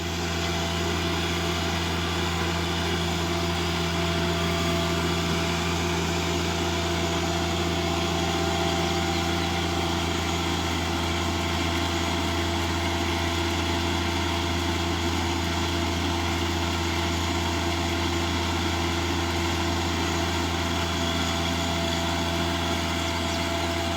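Tractor engine running steadily while it pulls a rotary tiller through heavy gumbo clay soil, a constant low drone with no change in pitch.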